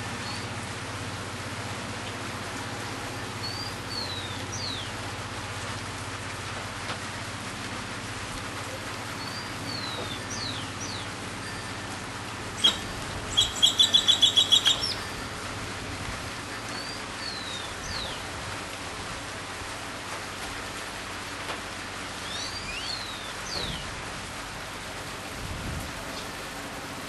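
Steady rain with birds calling through it: a short phrase of quick descending whistles repeats every several seconds. About halfway a loud, rapid series of about eight sharp notes stands out as the loudest sound.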